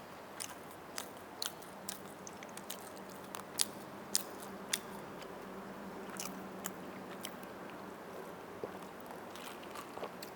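Close-miked mukbang eating sounds: a person biting and chewing roast chicken, with sharp crunchy clicks and smacks at an irregular pace, one or two a second.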